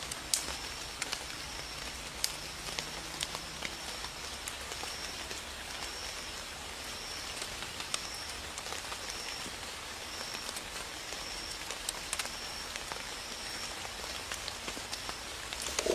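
Light rain falling steadily, an even hiss with scattered drop taps. A high chirp repeats about once a second throughout.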